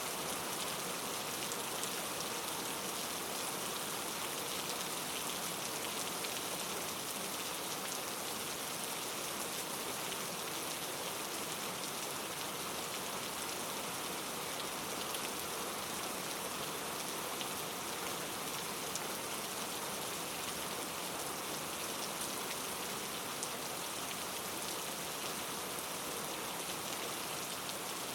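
Steady rain falling, an even hiss with a dense patter of fine drops.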